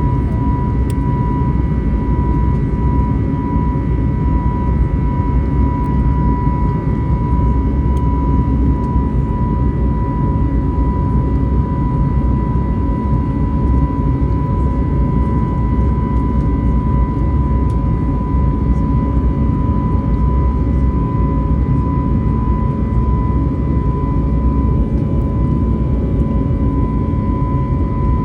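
Airbus A321neo cabin noise in flight: a steady low jet roar with a thin, unchanging whine on top.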